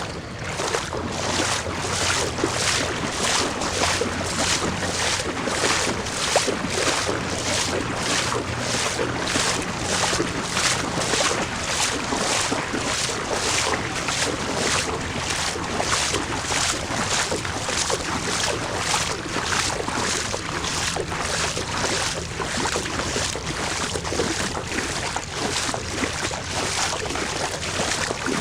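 Rhythmic splashing in floodwater, a steady stroke a little under twice a second, as of someone wading or swimming through water in a flooded street.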